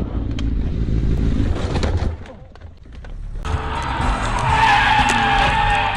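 Car running on the road with a low rumble, then, after a short lull, tyres squealing in a skid for the last two and a half seconds.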